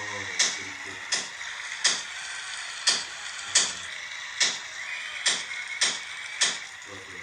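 A series of sharp ticks, about ten, unevenly spaced roughly half a second to a second apart, over a soft steady musical background.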